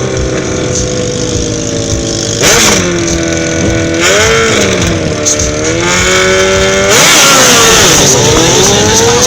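Drag-racing sport motorcycles running hard at the strip, their engines revved in short blips. About seven seconds in comes a louder surge of engine noise, the pitch dipping and then climbing again.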